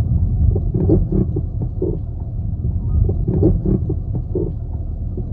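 Toyota Crown (S180 'Zero Crown') suspension knocking in short irregular clunks, in clusters, over a steady low rumble of the car on the road. This is the abnormal noise being traced, which the owner pins on a shock absorber.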